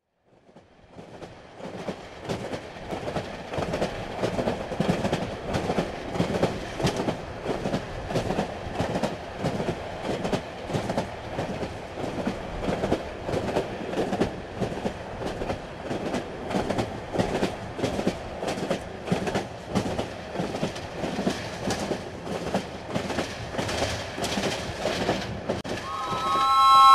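A train running on rails, its wheels clacking over the rail joints in a steady rhythm of about two beats a second. The sound fades in at the start. Near the end a short horn chord of several tones sounds, the loudest moment.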